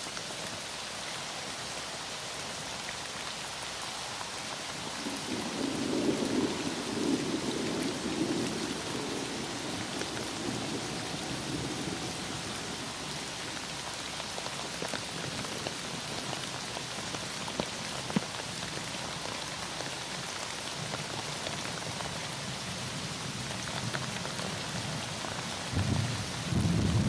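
Heavy rain falling steadily, with a low rumble of thunder rolling in about five seconds in and dying away by about twelve seconds, and another rumble starting near the end.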